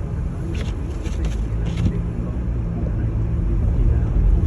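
Car driving, heard from inside the cabin: a steady low rumble of engine and road noise with a faint hum and a few light ticks.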